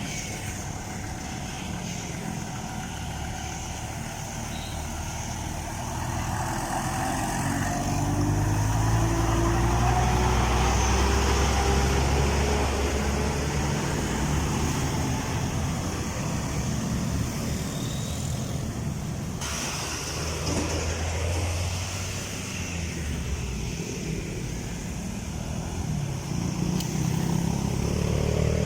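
Truck engines running in road traffic. One engine climbs in pitch as it accelerates and passes, loudest about a third of the way in, and another engine rises near the end.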